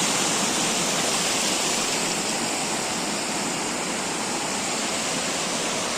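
Stream water rushing steadily, a continuous even rush of flowing water.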